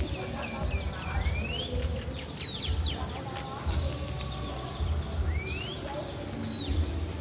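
Several birds chirping and calling, with short whistled notes that sweep up and down, over a low rumble that comes and goes.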